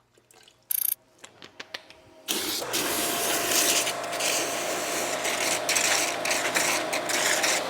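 A few small clicks and knocks, then about two seconds in an electric pressure washer starts and runs steadily, a loud rush of spraying water over a faint motor hum.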